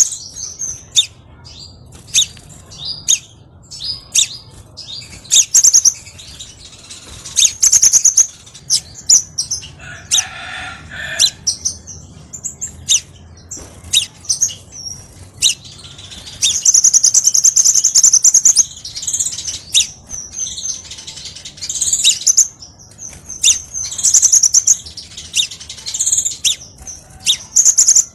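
Crimson sunbird song: quick, high-pitched chirps and fast buzzy trills in repeated bursts, with one lower-pitched call about ten seconds in.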